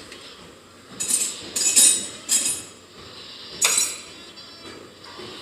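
A few short clinks of hard objects being handled, four in all, spread unevenly over the first four seconds.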